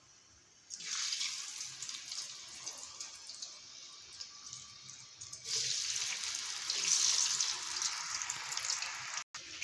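Cornflour-coated potato strips sizzling in hot oil: a sudden hiss about a second in as the first strip goes in, then a louder surge of sizzling about halfway through as more strips are added.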